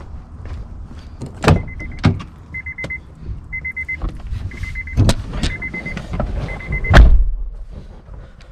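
An SUV's warning chime beeps in short bursts about once a second, with clicks and knocks in and around the car. A heavy thump near the end is followed by the chime stopping.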